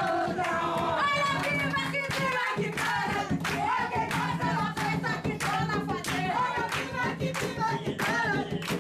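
Group singing a jongo song, accompanied by a steady rhythm of hand claps.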